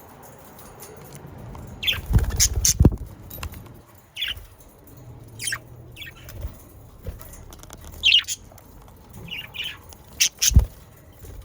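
Budgerigars chirping and squawking in short, scattered calls, with a few low thumps: a pair about two seconds in and one near the end.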